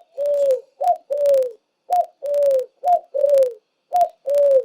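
Dove cooing: a short higher note followed by a longer, slightly falling lower note, the pair repeated about once a second, five times.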